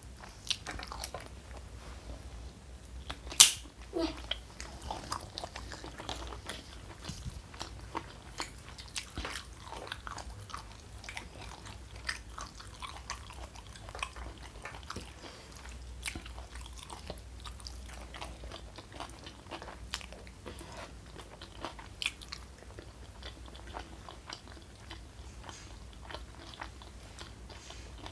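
Close-miked chewing and biting of food: a steady run of small irregular wet clicks and smacks, with one sharp, loud crunch about three seconds in.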